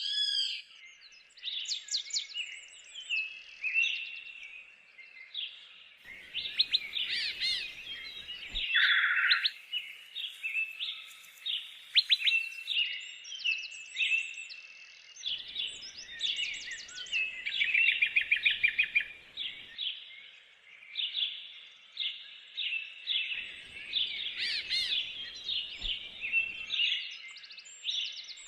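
Several songbirds singing and chirping at once, with many short chirps and trills overlapping throughout.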